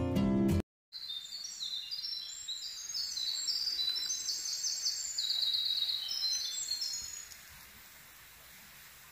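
Acoustic guitar music cuts off just after the start. Then a songbird sings one long, high, rapid song of trills that jump between pitches, lasting about six seconds and fading out near the end.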